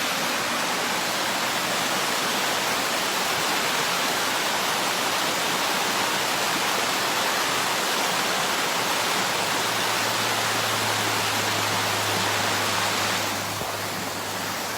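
Waterfall on a woodland creek, a steady rushing of falling water, turning a little quieter near the end.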